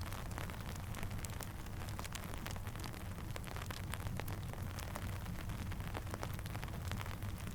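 Steady rain and a crackling campfire: an even hiss of rain over a low rumble, with many sharp pops scattered throughout.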